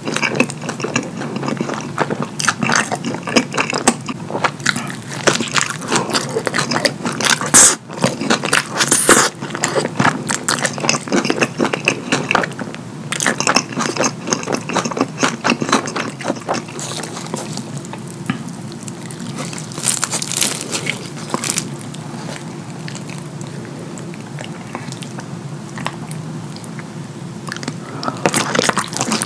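Close-miked wet chewing of pizza soaked in cheese sauce: a steady stream of sticky clicks and mouth smacks. The clicks thin out in the last third, then thicken again as another bite is taken near the end.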